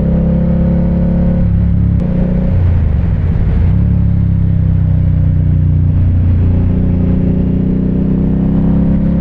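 2017 Indian Scout's V-twin engine running while riding, heard on-board. The engine pitch shifts and wavers between about one and a half and four seconds in, then runs steady.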